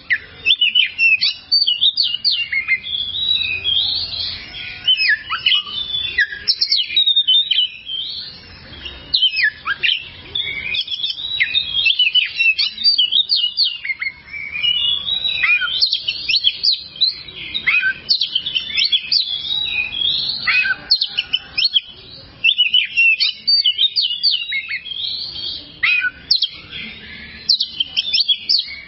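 Oriental magpie-robin (kacer) singing a long, continuous, varied song of quick whistles and chirps that rise and fall in pitch, with only brief pauses.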